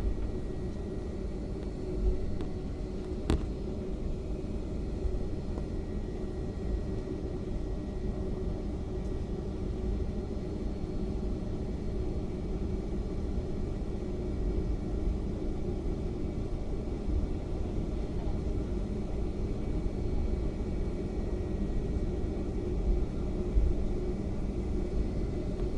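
Steady low rumble and hum of an airliner cabin while the aircraft taxis after landing: the engines running at low power and the wheels rolling. A single sharp click sounds about three seconds in.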